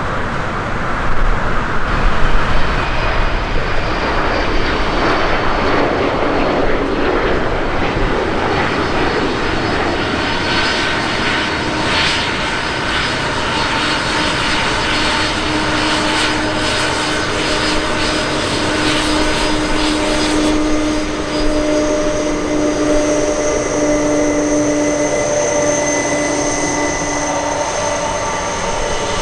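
Jet airliner engines running: a loud, steady noise, with several steady whining tones coming in about a third of the way through.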